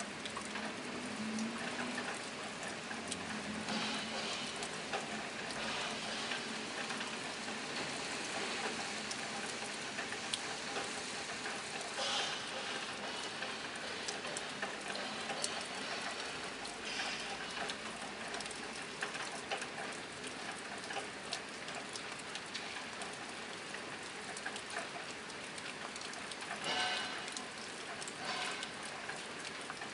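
Steady rain drumming on a tin roof: a dense patter of drops with sharper, louder drips now and then, one of the loudest about 27 seconds in.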